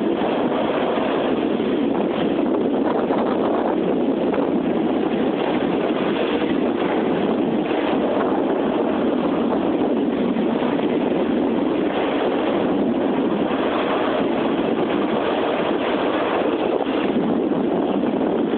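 CSX double-stack container freight train rolling past: a steady, loud rumble from the passing cars.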